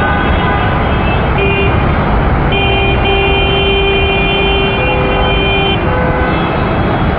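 Vehicle horns honking over a steady rush of road traffic noise: a short honk about a second in, then one long horn held for about three seconds, and two brief honks near the end.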